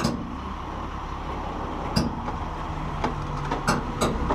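Diesel dump truck idling low and steady, with a sharp knock at the start and a few shorter clanks and clicks about two, three and four seconds in.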